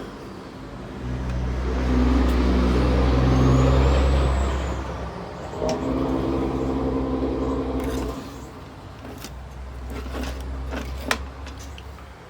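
A low mechanical drone with a steady pitch. It swells up about a second in, dips briefly a little past halfway, picks up again, then fades. A few light clicks and a sharper tap come near the end.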